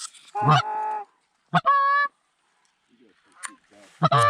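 Three loud Canada goose honks, each a short pitched call with a sharp break at its start: one near the start, one about a second and a half in, and one near the end.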